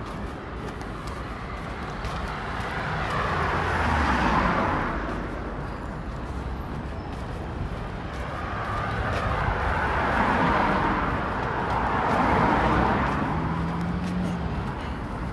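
Road traffic: three vehicles pass one after another, their tyre and engine noise swelling and fading, about four seconds in and then twice close together near the end.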